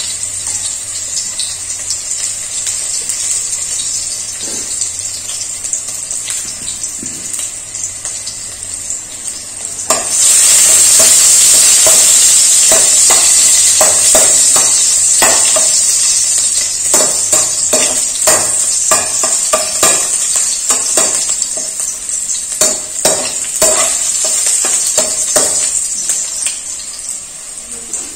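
A tempering of shallots, chillies and curry leaves sizzling in hot coconut oil in a nonstick kadai. The sizzle jumps suddenly much louder about ten seconds in, then slowly eases, under the clatter of a metal slotted spoon stirring and knocking against the pan.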